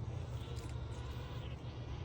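Faint, high, buzzy begging calls of greater roadrunner chicks, in two stretches, over a steady low rumble.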